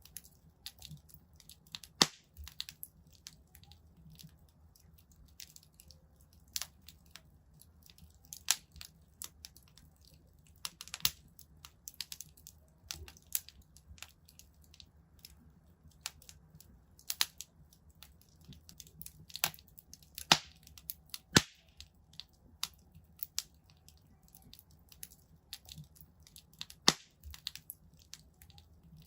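Wood fire in a fireplace crackling: irregular sharp pops and snaps, a few much louder than the rest, over a faint low rumble.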